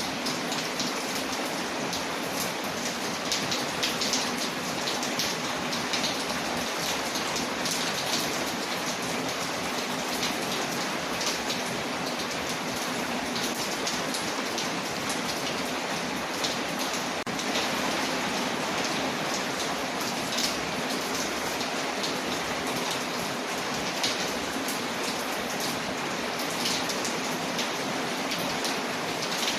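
Steady rain falling on a window, a dense even hiss with many small drop ticks scattered through it.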